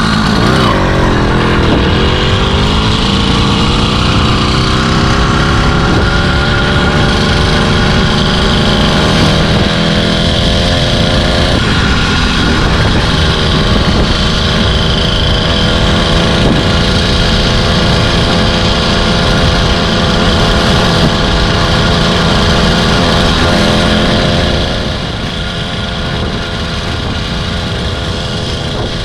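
Chinese 80cc two-stroke engine on a motorized bicycle, running under way. Its pitch dips about a second in, then climbs and holds steady. It eases off about 24 seconds in.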